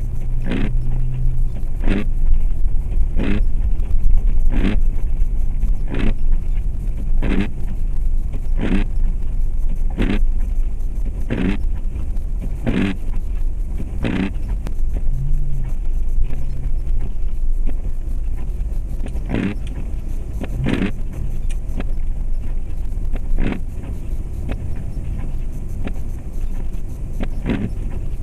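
Steady engine and road rumble of a 2004 Jeep Grand Cherokee driving on snowy roads, heard inside the cabin. Over it comes a short clack about every second and a half through the first half, then a few more at irregular gaps.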